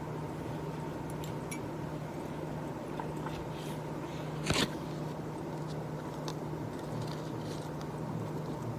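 Steady low hum under scattered light taps and clicks, with one sharper knock about four and a half seconds in.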